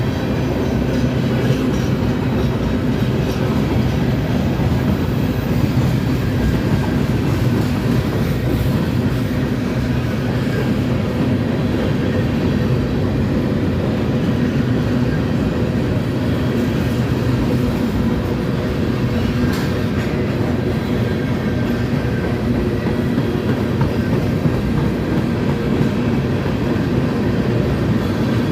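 A train rolling past close by on the main line, a loud, steady rumble with no let-up.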